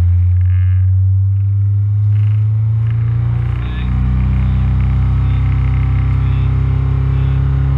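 Ford Fiesta ST150's 2.0-litre four-cylinder engine running steadily with the car standing still, heard from inside the cabin. The engine note dips and shifts briefly a little before halfway.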